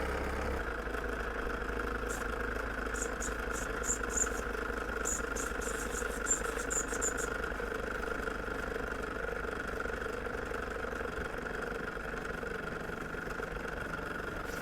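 Small live stationary steam engines under steam: a steady hiss carrying a steady tone, with a quick run of light ticks a couple of seconds in. The boilers are overfilled, and the steady hiss is taken for the safety valve having lifted.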